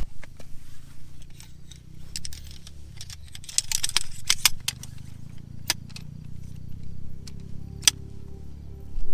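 Small metal objects jingling and clicking irregularly over a steady low rumble.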